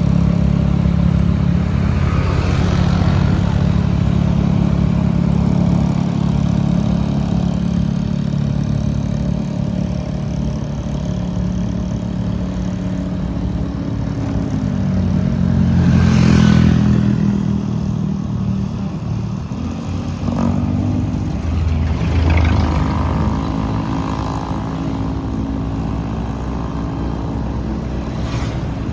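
A motorbike engine running under way, its pitch shifting about halfway through, with louder swells from other traffic about halfway and again about two-thirds of the way through.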